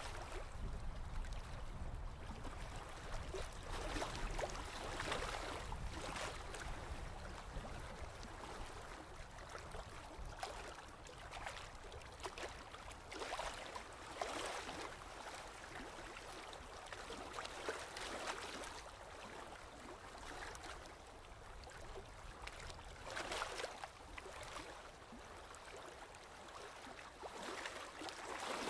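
Sea waves washing in, swelling and falling back in irregular surges every few seconds, over a low rumble.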